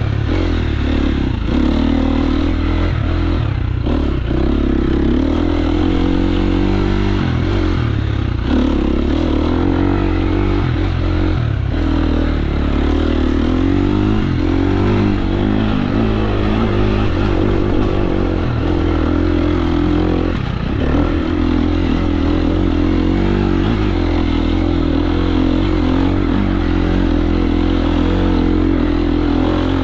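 KTM 350 SX-F dirt bike's single-cylinder four-stroke engine under riding load, its revs rising and falling again and again as the rider works the throttle, with clattering from the bike over rough ground.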